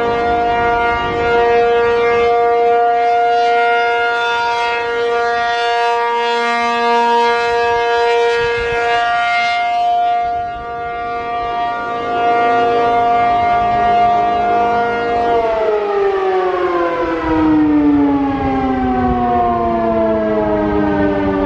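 P-50 outdoor warning siren sounding a steady, loud chord-like tone, its cold fiberglass horn flexing and adding a purr. About 15 seconds in it begins winding down, the pitch falling steadily.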